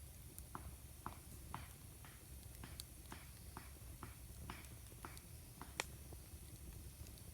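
Wood campfire crackling faintly, with irregular small pops and one sharper pop about six seconds in, over a low rumble.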